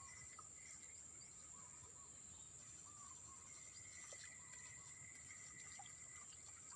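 Faint outdoor ambience: insects give a steady high-pitched drone, and a bird repeats short chirps every second or so.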